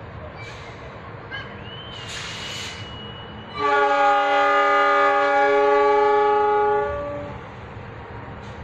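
Passenger train's locomotive air horn sounding one long multi-note chord blast of about three seconds, which then fades away. Just before it there is a short hiss and a thin, high whistle-like tone.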